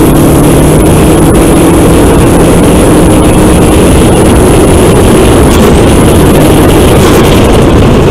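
Volkswagen Golf GTI Mk4's 1.8-litre turbocharged four-cylinder engine pulling under load on a straight, its pitch rising slowly through the gear, over heavy wind and road noise. The recording is very loud, near full scale.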